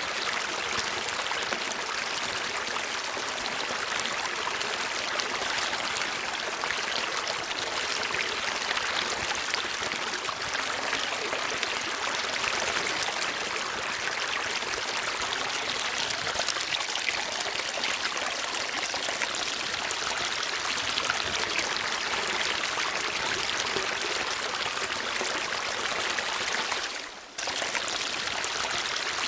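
Running water flowing steadily, an even rushing sound with a brief drop in level near the end.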